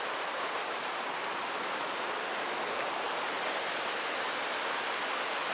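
Rain falling steadily, heard as an even, unbroken hiss with no distinct drops or other events.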